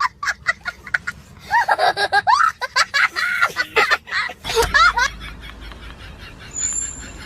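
High-pitched laughter: quick chirp-like pulses, then squealing sounds that slide up and down in pitch.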